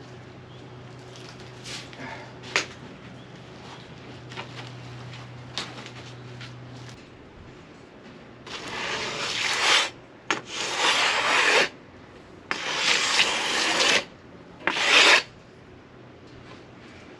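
Four rasping strokes of something rubbed over a freshly sawn oak slab, each about a second long, in the second half. Before them a steady low hum stops about seven seconds in.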